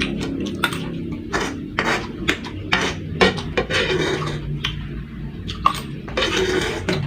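Metal spoon clinking and scraping against a plate while scooping up fried rice: a string of sharp, irregular clicks.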